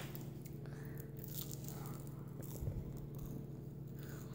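Someone chewing a mouthful of waffle with small crunches, over a steady low hum, with one soft low thump a little past halfway.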